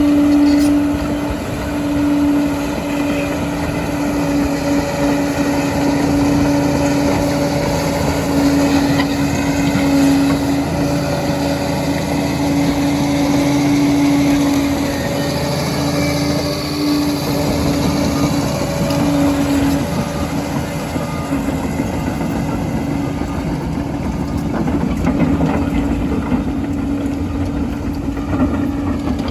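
Liebherr PR 746 crawler dozer's diesel engine running steadily at work, with a steady whine over the rumble that drops out briefly a few times in the second half.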